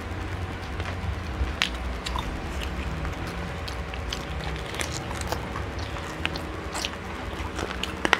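Several people biting and chewing crispy fried chicken, with scattered small crunches and mouth clicks over a low steady hum.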